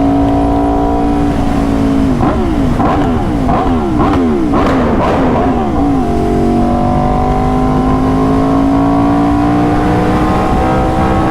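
Aprilia RSV4's V4 engine running on the road. About two seconds in, the revs swing up and down several times in quick succession for some four seconds, with sharp cracks among them. After that it settles into a steady drone that climbs slowly in pitch.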